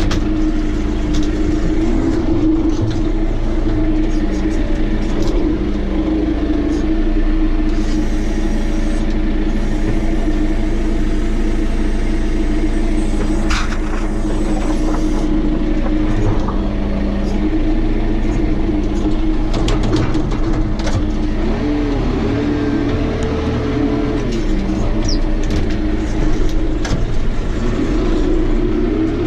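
Tractor's diesel engine running steadily, with its engine speed briefly rising and falling about two-thirds of the way through and again near the end. There are a few light knocks along the way.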